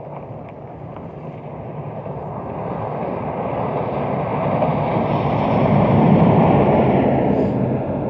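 Snowplow truck approaching and driving past, its noise swelling to a peak about six seconds in and then fading, with strong wind on the microphone.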